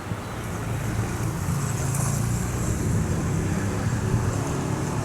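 Dhoho economy train running: a steady low rumble with a hiss over it, growing louder over the first couple of seconds and then holding.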